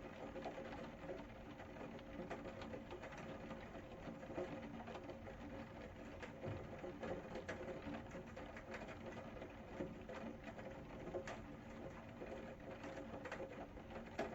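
Rain falling steadily, its drops pattering and ticking irregularly on hard surfaces.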